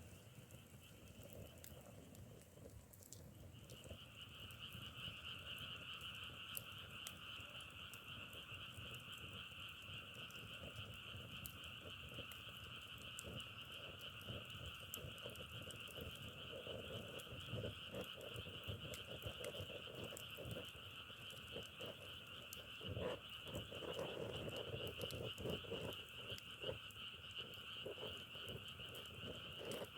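Faint chorus of many frogs calling together, a dense steady trilling that swells up about three seconds in, with lower, nearer croaks joining in and out during the second half.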